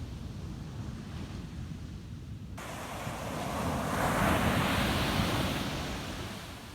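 Ocean waves on a beach: a wave swells up, is loudest around four to five seconds in, and then washes back down. Wind rumbles on the microphone underneath.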